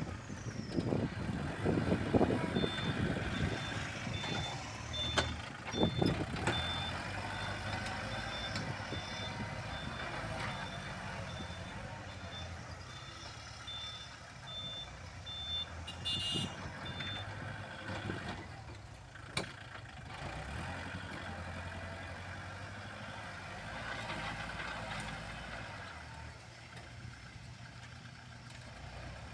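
Heavy machinery working in soil: an engine running steadily while a reversing alarm beeps in an even high-pitched beep-beep from a few seconds in until about halfway through. There are loud knocks and clatter in the first several seconds.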